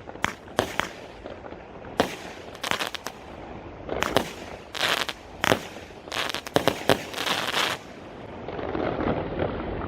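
Fireworks going off: a series of sharp bangs and crackling bursts, with a dense run of them about two-thirds of the way through. Near the end the bangs give way to a steady rushing noise.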